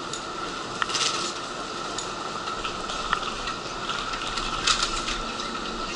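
Steady hum and hiss of a stopped electric commuter train at a station platform, with scattered light clicks and rattles.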